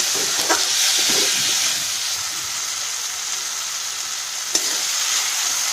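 Tomato-onion masala sizzling in hot oil in a wok while a spatula stirs and scrapes it, the masala being sautéed until the tomatoes soften. A single sharp click about four and a half seconds in.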